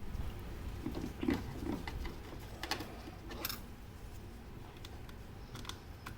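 Irregular light clicks and taps, with a few duller knocks in the first two seconds, from hands working on a grandfather clock movement, over a steady low hum.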